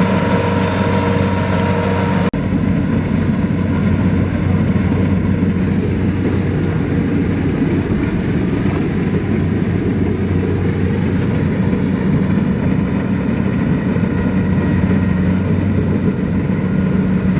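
Tractor diesel engine running steadily. There is a brief dropout about two seconds in, after which the engine sound continues slightly duller.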